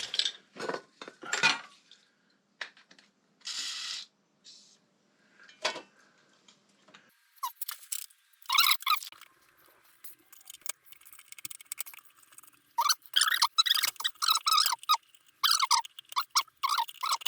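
Rapid short squeaks, several a second, in dense runs through the second half, after a few scattered clicks and handling noises.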